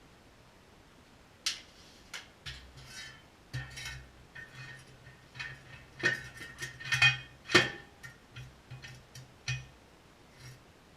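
A steel tape measure being handled: a run of light clicks and metallic rattles, busiest in the middle, with the loudest click about seven and a half seconds in.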